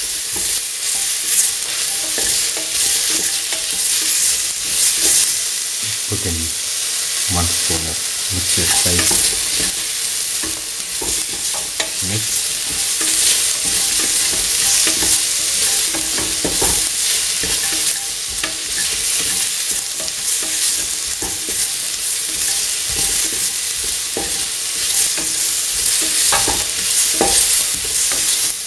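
Onion, bell pepper, garlic and tomato pieces sizzling steadily in hot oil in a metal pan while being stirred, the spoon knocking and scraping against the pan now and then, with a run of low knocks between about six and nine seconds in.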